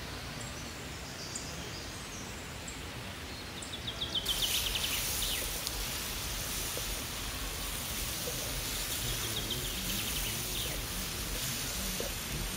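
Woodland ambience with a small bird singing a short rapid trill twice, over a steady hiss that grows louder about four seconds in.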